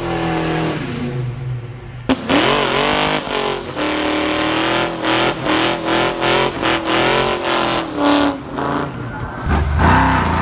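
Muscle car engine revving loudly. There is a sharp crack about two seconds in, then the pitch rises and falls, followed by a run of quick throttle blips about two to three a second. A deeper engine sound comes in near the end.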